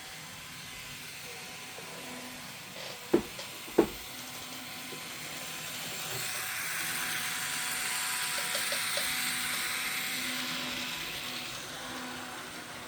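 Wuiske Models QR 1720 class model diesel locomotive running at full speed around its track: a steady motor-and-wheel whir that grows louder for a few seconds around the middle, then fades. There are two sharp clicks about three and four seconds in. Its drive is a little noisy, which the owner thinks he can remedy.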